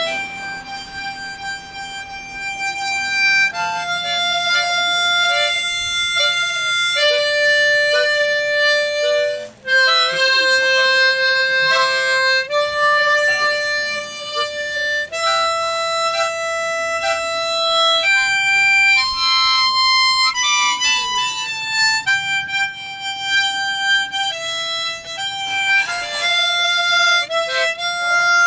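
A long harmonica playing a slow melody of held, sustained notes, one note at a time, changing every second or two.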